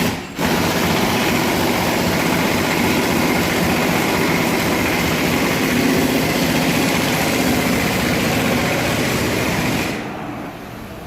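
Water sprayed onto the exhaust of a running Toyota 1GR V6 to find the leak: a loud, steady hiss that breaks off briefly just after the start and stops suddenly about ten seconds in.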